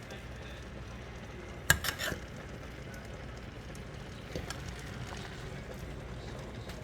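Kitchenware clinking: a quick cluster of sharp knocks about two seconds in and a couple of lighter ticks later, over a steady low background hum.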